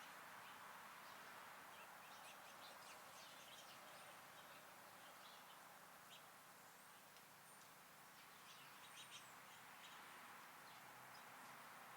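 Faint, scattered short high chirps and calls of small songbirds over a steady low outdoor hiss.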